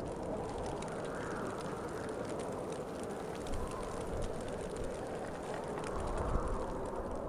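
Winter wind blowing steadily in gusts that swell and ease, with faint scattered ticks above it.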